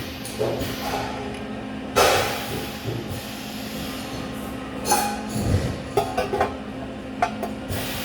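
Metalworking shop sounds: a steady hum under a series of sharp metal knocks and clicks, the loudest about two seconds in and a quick run of them near the end.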